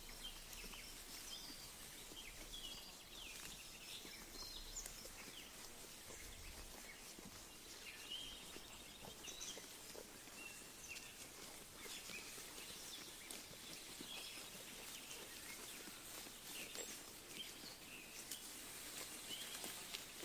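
Faint open-pasture ambience: scattered short bird chirps over a steady hiss, with soft ticks and rustles of sheep grazing in the grass.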